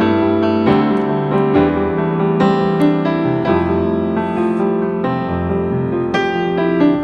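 Background piano music: a melody of sustained notes over a bass line.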